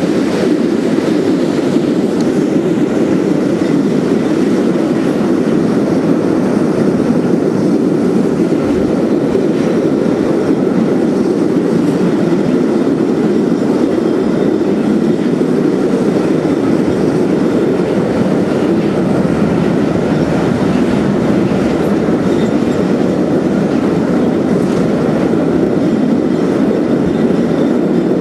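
Steady running noise of a steam-hauled passenger train's carriages crossing a steel railway bridge, heard from a carriage window: a continuous rumble of wheels on the rails with some clickety-clack.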